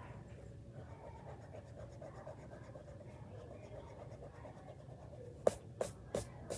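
A pencil eraser rubbing back and forth on drawing paper, erasing inside a pencil sketch. The rubbing is faint at first, and about five seconds in it becomes a run of sharp, louder strokes, about three a second.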